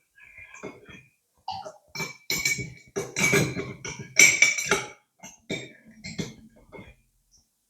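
A quick string of short, loud mouth noises, burp- and beatbox-like bursts, loudest a few seconds in and stopping shortly before the end.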